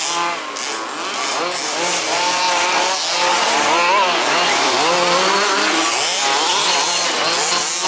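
Several 1/5th scale RC buggies' small two-stroke petrol engines running together, their pitches rising and falling as the buggies rev and ease off around the track.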